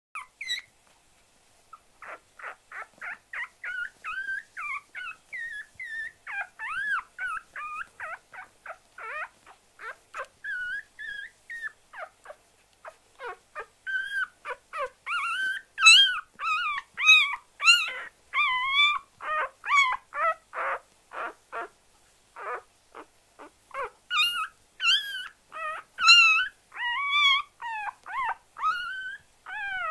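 An animal making a long run of short, high-pitched whining calls, two or three a second, each bending in pitch. The calls grow louder about halfway through.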